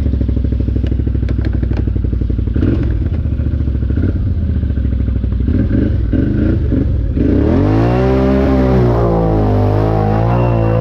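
ATV engine running at low revs with a fast, even pulse, then throttled up about seven seconds in, its pitch rising and wavering up and down with the throttle.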